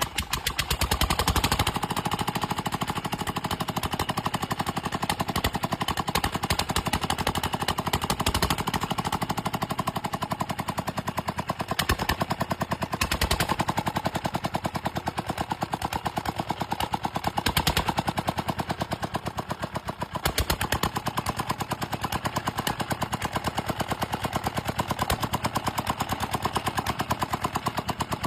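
Dongfeng 28 hp diesel engine running, its exhaust beating out a fast, even stream of sharp knocks like a machine gun, with a few louder bangs along the way.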